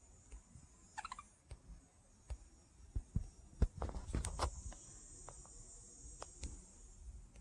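A pet budgie's beak and feet clicking and tapping close to the microphone in scattered small taps, thickest in a cluster about three to four and a half seconds in, with one short soft chirp about a second in.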